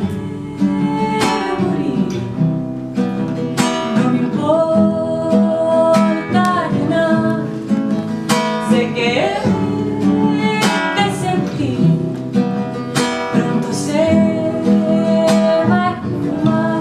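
Live acoustic music: an acoustic guitar strummed in a steady rhythm, in an instrumental passage of a song. A long melody note is held over it twice, about four seconds in and again late on.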